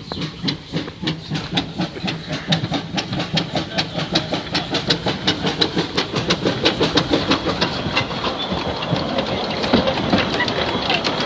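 Steam locomotive pulling away slowly: a regular chuff of exhaust beats over a steady hiss, the beats quickening and getting louder as the train gathers speed.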